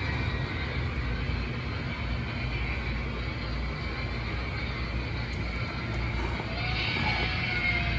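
Lionel O gauge 0-6-0 Reading switcher running on the track pulling a string of tank cars: a steady rumble of motor and wheels.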